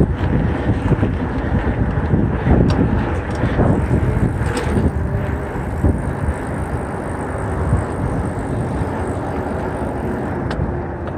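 Mountain bike riding a dirt trail: wind blowing across the microphone and tyres rumbling over the ground, with a few sharp rattling knocks from the bike.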